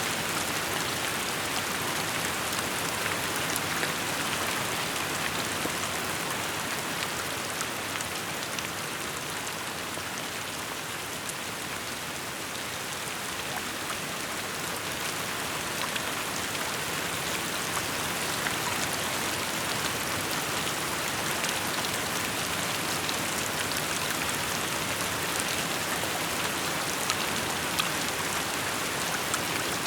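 Steady rainfall, a dense patter of drops hitting surfaces, with individual drop ticks scattered through it. It eases slightly in the middle and picks up again.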